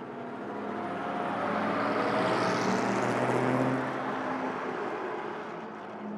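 Vintage straight-eight race car driving past. The engine note swells to its loudest about two to four seconds in, then fades away.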